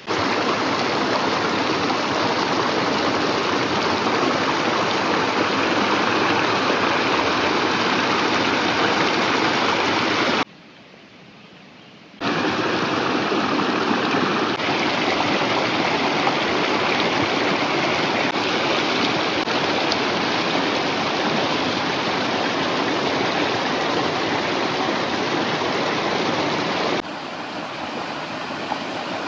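A river rushing steadily. It breaks off sharply for a couple of seconds about ten seconds in, then returns, and is a little quieter near the end.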